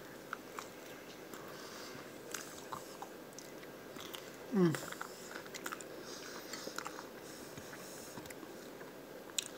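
Faint close-up chewing of a mouthful of lettuce-and-tomato salad, with small wet clicks of the mouth and fork. There is one short falling vocal sound about halfway through.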